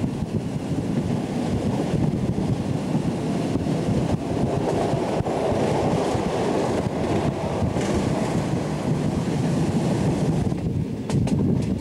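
Wind rushing over the microphone and the steady rumble of a moving passenger train, heard from an open carriage window, with a few sharp clicks near the end.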